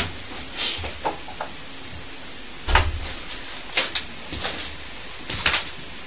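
Scattered light knocks and clicks, about six in all, the loudest a dull thump a little under three seconds in.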